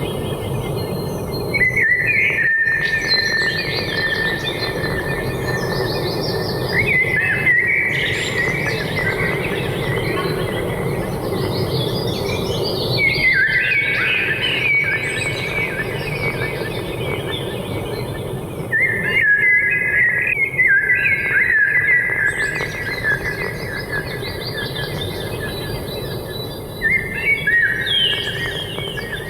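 Forest ambience: a bird singing short chirping phrases, one cluster every five or six seconds, over a steady low background hum.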